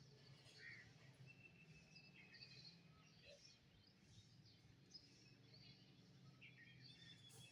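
Faint chorus of small songbirds: many short, high chirps and whistles overlapping, with one thin, steady whistle held for about a second and a half, over a low, steady hum.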